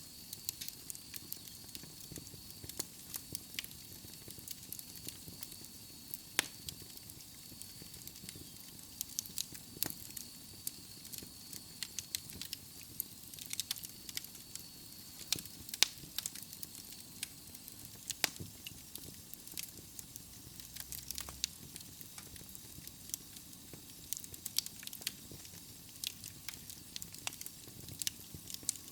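Wood fire burning in a fireplace: logs crackling with frequent irregular sharp pops over a soft steady hiss, a few pops louder than the rest. A faint high thin whistle runs through the first half and then fades out.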